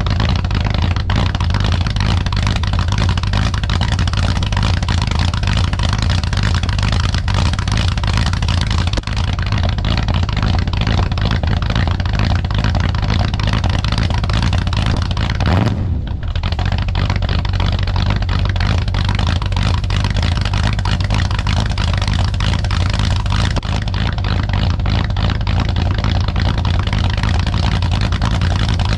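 1966 Chrysler 300's 383 cubic-inch V8 idling steadily as it warms up after a cold start, with one brief dip about sixteen seconds in.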